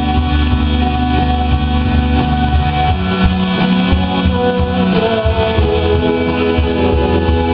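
Live rock band playing an instrumental passage, electric guitar to the fore over bass, drums and synthesizer.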